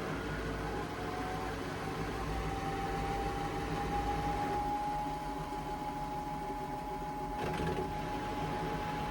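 Indesit washing machine running, its motor whine rising in pitch over the first couple of seconds and then holding steady as the drum speeds up, over a low rumble that drops away about halfway through.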